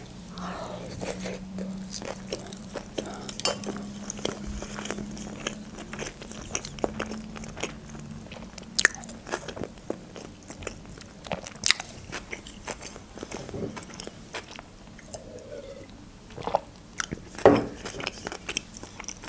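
Close-miked chewing of a salmon-topped sushi roll: soft, wet mouth clicks and smacks, coming irregularly.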